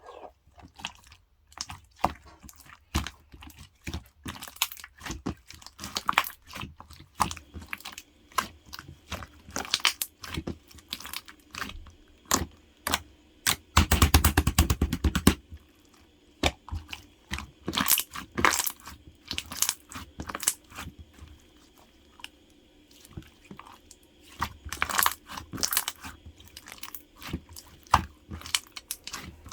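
Close-up crunching and chewing of white jjondeugi, a chewy Korean starch snack, as a run of sharp, crisp crackles and clicks. About fourteen seconds in comes a denser, louder stretch of crunching lasting a second and a half.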